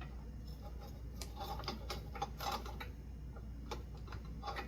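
Small irregular clicks and ticks of hands handling ceiling fan parts and wiring, over a faint steady hum.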